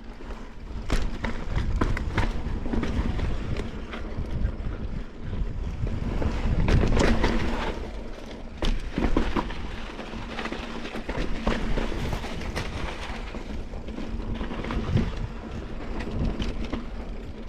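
Mountain bike rolling over slickrock, with wind on the microphone, a steady rumble of tyres on rock, and frequent knocks and rattles from the bike over bumps.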